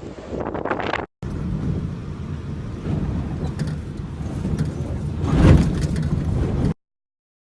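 Storm wind buffeting the microphone in a low rumbling roar that swells to its loudest about five seconds in, then cuts off abruptly.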